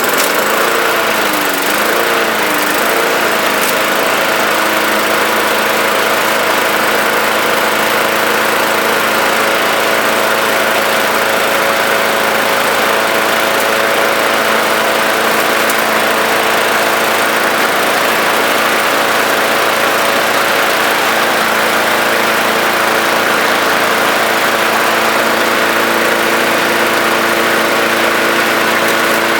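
5.5 hp Briggs & Stratton engine on a Bolens push mower running just after starting. Its speed wavers for the first few seconds, then it settles into a steady run with the blade spinning. The vibration is reduced but not gone, which the owner puts down to a crankshaft probably a tiny bit bent.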